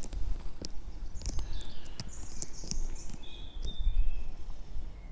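Small birds chirping in short high calls over a steady low rumble, with a few light clicks.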